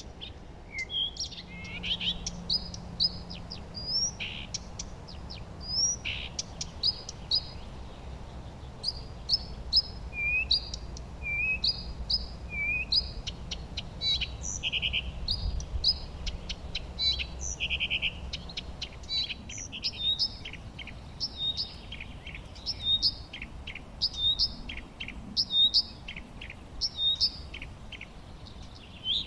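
Several songbirds singing and chirping: a busy mix of short high whistles, hooked notes and quick trills that overlap all the way through.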